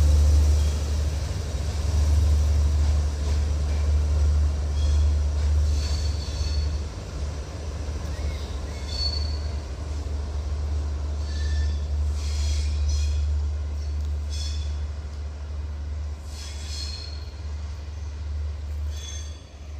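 Train passing: a steady low rumble with short high wheel squeals every couple of seconds, slowly growing fainter toward the end.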